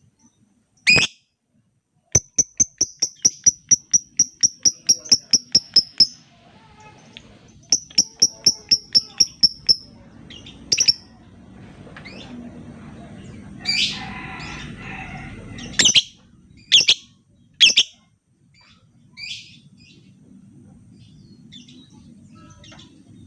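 Lovebird calling: a long run of sharp, rapid chirps at about four to five a second, a shorter run after it, then several single loud shrill calls.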